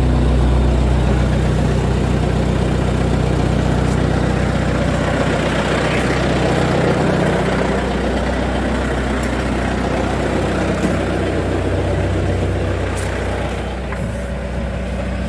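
Daihatsu Fourtrak's diesel engine running steadily, its note shifting about halfway through and the level dropping a little near the end.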